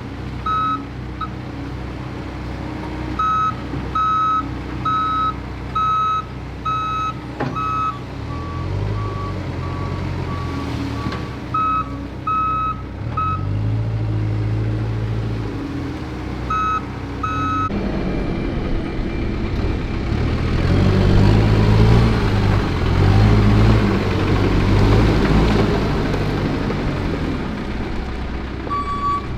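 Heavy equipment working: a diesel engine revving up and down while reversing alarms beep about once a second, and for a few seconds one alarm gives a steady tone instead. Past the middle a louder, rough grinding noise sets in and runs alongside the engine.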